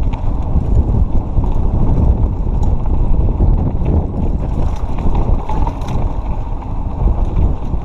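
Wind buffeting the microphone and a mountain bike's tyres rolling over a dirt trail on a fast descent, with scattered clicks and rattles from the bike.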